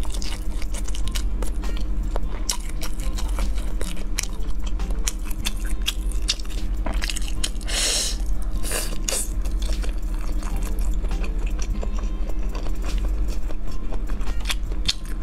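Close-miked eating: wet chewing and crackly mouth sounds from spicy fried skewer food, with a louder crunchy bite about eight seconds in as a piece of fried tofu is bitten off a skewer.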